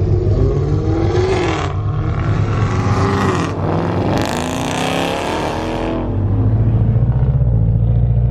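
A car engine heard from inside the cabin, revving up and down with a rush of noise around four to six seconds in as the car pulls away, then settling into a steady low drone.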